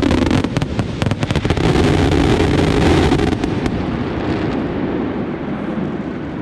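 Aerial fireworks going off: a rapid string of sharp bangs, then a dense crackling that swells about two seconds in and slowly dies away.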